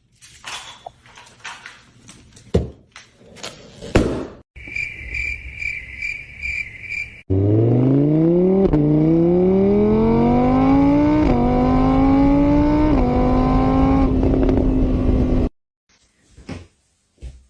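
A car engine accelerating hard through the gears: its pitch climbs, drops back at each of three shifts, then holds steady and cuts off suddenly. Before it come a few knocks and a short run of repeated high beeps, about two a second.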